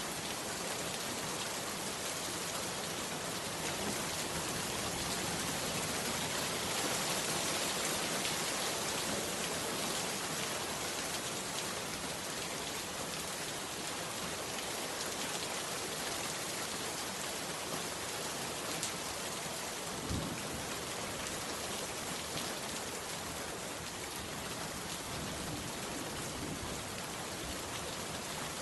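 Heavy rain falling steadily, an even hiss of drops. About two-thirds of the way through there is a single brief low thud.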